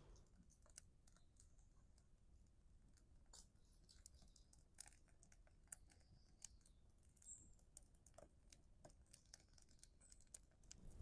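Near silence broken by many faint, irregular clicks and ticks.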